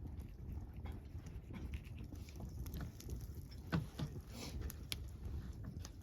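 Wood campfire crackling, with irregular sharp pops over a low steady rumble of the burning fire; one louder pop a little before four seconds in.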